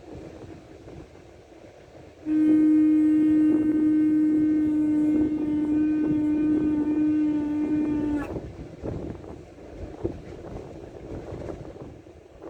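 Shofar blown in one long, steady note of about six seconds, starting about two seconds in and dipping slightly in pitch as it cuts off. Wind rumbles on the microphone before and after the blast.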